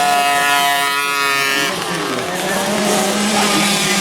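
Motocross motorcycle engines running at high revs: one steady, high note that drops away about two seconds in, then a lower, steadier engine note.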